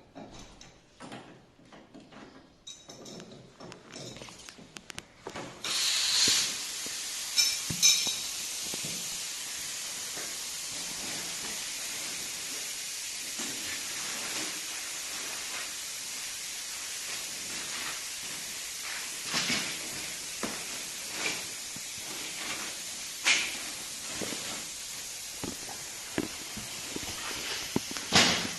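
A steady hiss of pressurised gas escaping, starting suddenly about five seconds in, with handling clicks and knocks before and during it.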